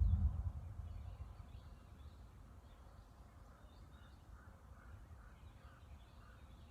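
Distant thunder rumbling low, loudest at the start and fading over the next couple of seconds. In the second half a bird gives a run of about five short calls, with fainter chirps from other birds higher up.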